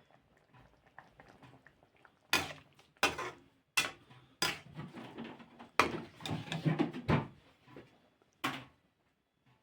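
Kitchen utensils and cookware clattering: about seven sharp clinks and knocks with scraping between them, starting about two seconds in.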